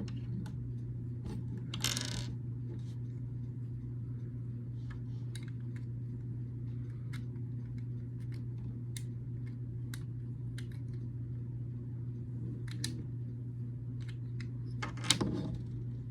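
Small plastic building bricks clicking and clattering as they are handled and pressed together, with a louder clatter near the end, over a steady low hum.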